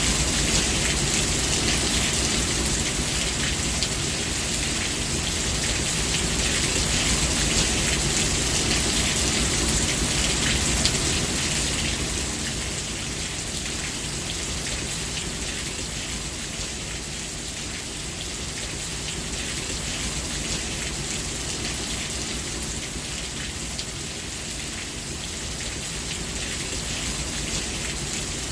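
Steady, dense rainfall hissing, with the patter of individual drops throughout; it eases off a little about twelve seconds in and then holds steady.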